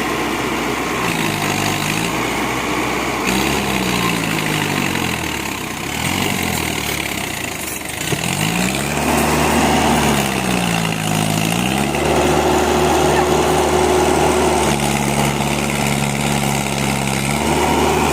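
Diesel tractor engine pulling a heavy sugarcane load, revving up and dropping back several times, then held at higher revs for the last several seconds.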